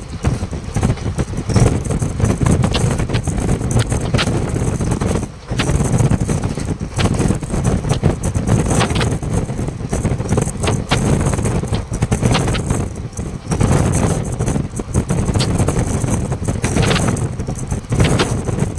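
Express passenger train running at speed, heard from an open coach window: a steady rumble of wheels on rails with wind buffeting the microphone and irregular sharp clacks.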